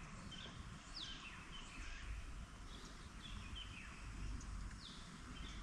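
Small birds chirping faintly: short, quickly falling calls repeated every second or so, over a low rumble.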